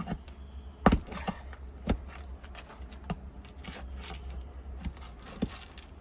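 Roofing nail being worked out of asphalt shingles with a metal tool: scattered sharp clicks, knocks and scrapes, the loudest about a second in, over a steady low rumble.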